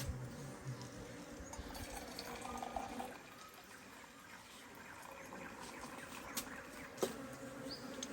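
A flying insect buzzing close by over a faint background hum, with a few light clicks near the end.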